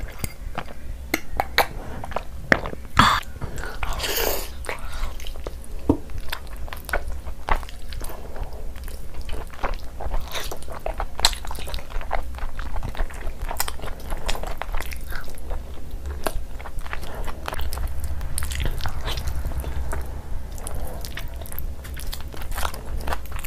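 Close-up eating sounds: wet chewing, biting and lip-smacking on pieces of saucy chicken curry and luchi eaten by hand, a dense run of irregular clicks and smacks.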